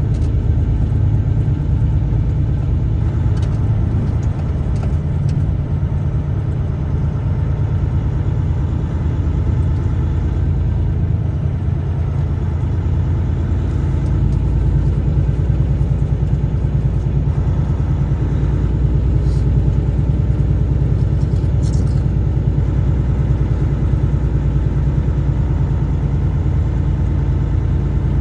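A truck's engine and road noise, a steady low drone while driving, with a few faint clicks.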